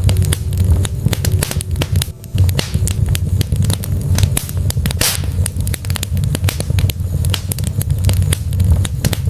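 Logs burning in a fireplace: rapid, irregular crackles and sharp pops over a steady low rumble.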